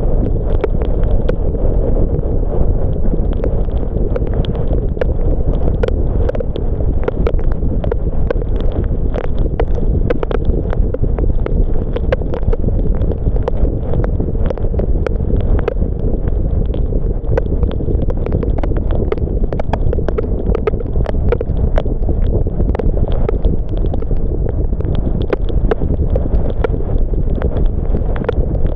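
Car driving in the rain: a steady low rumble of road and tyre noise, with many scattered ticks of raindrops striking the car.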